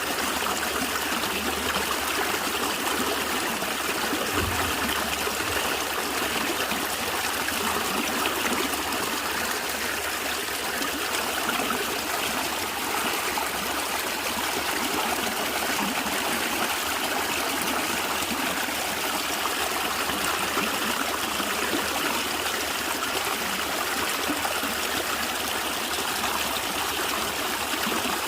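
A stream of water flowing and gurgling steadily over stones, with a brief low thump about four seconds in.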